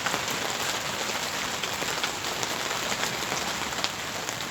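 Steady rain falling, with many close raindrop ticks over an even hiss.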